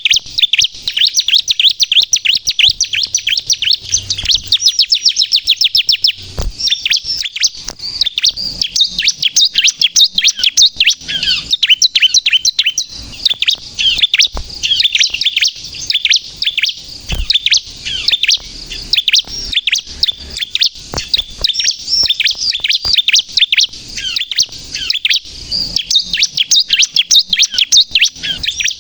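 Bar-winged prinia (ciblek) singing busily: a fast, unbroken stream of high, sharp chirping notes and quick sweeps.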